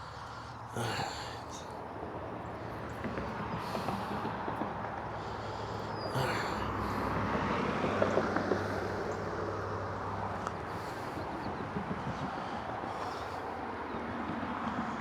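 Road traffic: a vehicle passing, its low hum and tyre noise swelling to loudest about eight seconds in and then fading. Two brief sharp knocks stand out, about a second in and about six seconds in.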